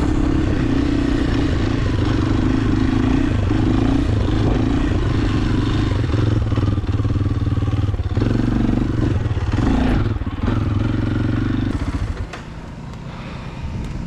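Pit bike engine running with small changes in throttle. Its note drops away sharply about twelve seconds in.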